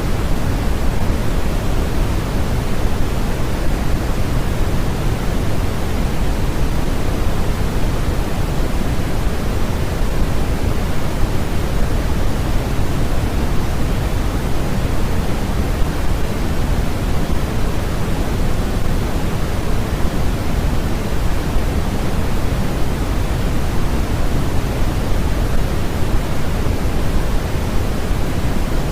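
Steady, unchanging hiss of a generated noise track, deep and full with more weight in the low end than at the top, with no breaks or events.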